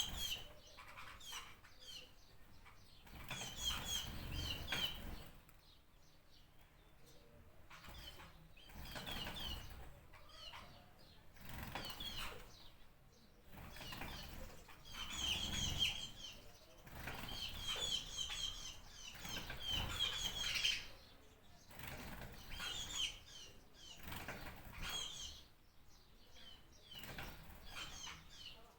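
Birds chirping in repeated short bouts every second or two, mixed with a rustle of flapping wings.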